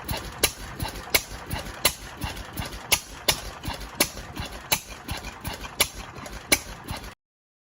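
An old Fairbanks Morse engine running slowly, with sharp, even firing knocks about one and a half a second and lighter clatter between them over a low rumble. The sound cuts off abruptly near the end.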